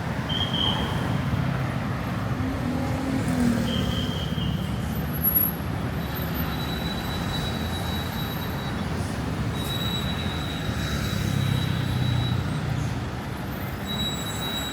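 City street traffic: a steady low rumble of passing vehicles. A few brief high-pitched tones sound over it.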